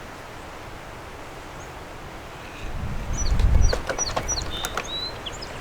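A few short, high bird chirps over a steady background hiss. About halfway through, a loud low rumble like wind buffeting the microphone or the microphone being handled comes in, with scattered clicks.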